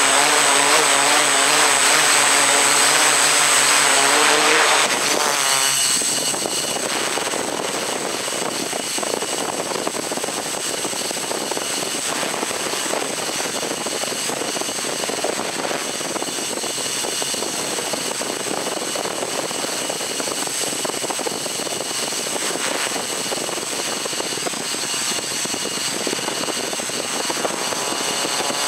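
Motors and propellers of a multicopter drone running: a pitched hum that wavers up and down for the first five seconds or so, then settles into a steady, noisier whir.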